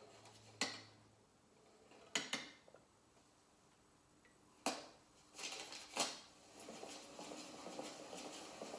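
A few sharp, isolated knocks and clicks, spaced a second or two apart, over quiet room tone.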